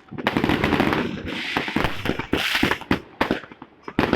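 Fireworks going off in rapid, overlapping bangs. They merge into a dense crackling barrage for most of the first three seconds, then thin out to separate bangs near the end.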